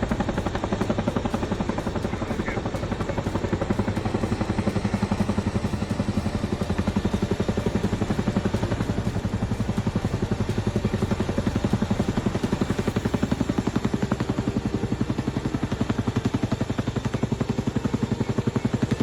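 Helicopter running overhead, its rotor blades giving a fast, even pulse over the engine's steady sound.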